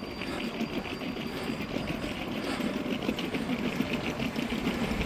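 Steady street noise with a fast, even rattle and a low rumble, as from traffic or wheels rolling over paving.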